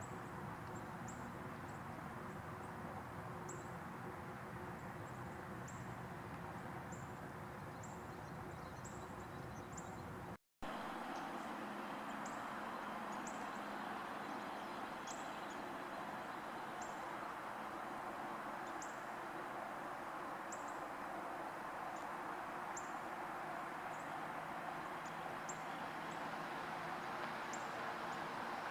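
Thin, very high bird chip notes repeating irregularly about once or twice a second over a steady rumble of distant traffic. The sound cuts out completely for a moment about ten seconds in.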